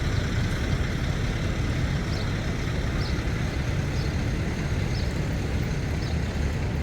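City traffic noise: a steady low rumble of passing and idling vehicles, with short faint high chirps about once a second.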